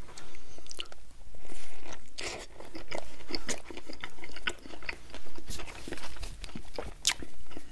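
Close-miked chewing of a mouthful of Whopper burger: wet mouth sounds with many irregular small crunches and clicks.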